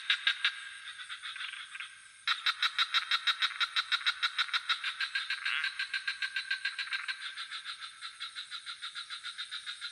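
Frogs calling in a rapid pulsed chorus of about seven croaks a second. The chorus breaks off briefly about two seconds in, restarts suddenly and slowly fades. A steady high-pitched insect trill runs underneath.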